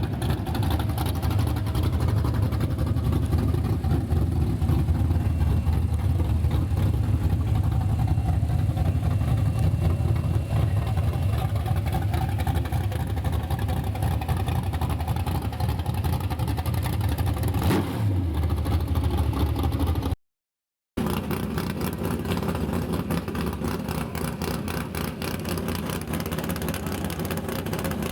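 Car engine running steadily with a low, pulsing rumble. Midway there is a brief cut to silence, then the rumble continues.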